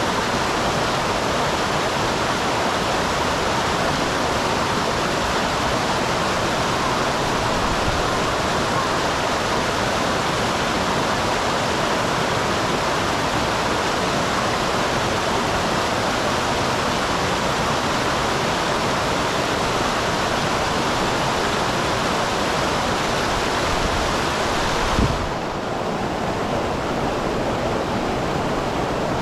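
Small waterfall on a mountain stream, water rushing steadily. About 25 seconds in there is a brief thump, after which the rush sounds slightly duller and quieter.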